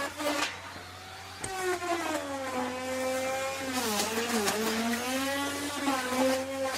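Electric wood router running with its bit cutting into wood. The motor's whine sags in pitch under load, most deeply about four seconds in, and recovers, with harsh bursts of cutting noise near the start and end.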